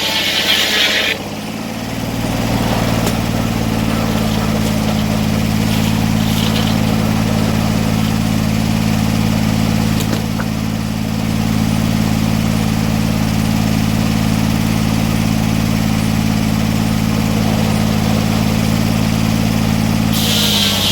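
Sawmill engine running at a steady speed. A higher hiss over it stops about a second in and returns just before the end.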